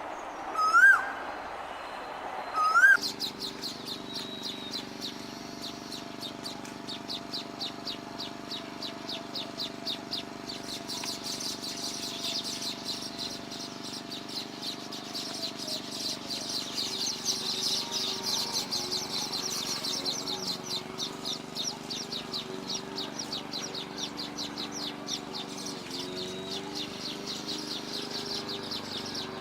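Birds chirping in a fast, continuous run of high, quick notes, over a steady low hum. In the first seconds, before this starts, two loud rising calls are heard.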